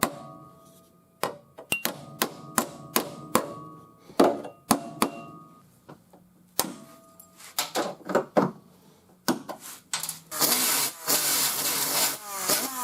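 Hammer strikes on sheet-metal body panels, irregular and each leaving a short metallic ring. Near the end a loud power tool starts up and runs.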